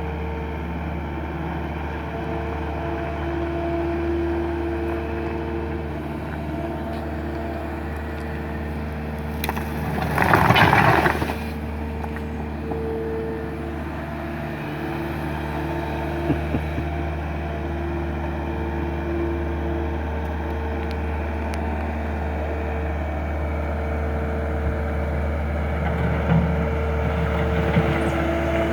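Skid steer loader's engine running steadily, with whining tones that rise and fall as it works. About ten seconds in there is a brief louder rushing noise.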